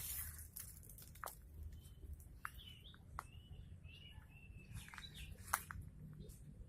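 Small birds chirping: a string of short calls, several sliding up or down in pitch, mixed with sharp clicks and rustles.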